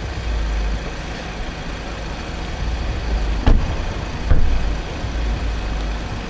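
Steady low rumble of a motor vehicle, with two short knocks, one about three and a half seconds in and one just after four seconds.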